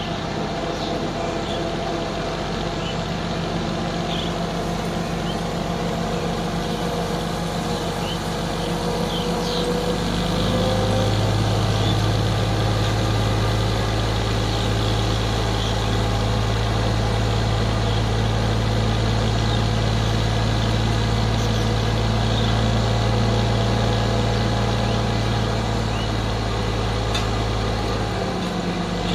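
Ford 3610 tractor's three-cylinder engine running steadily under load. Its low drone grows louder about ten seconds in and eases back near the end.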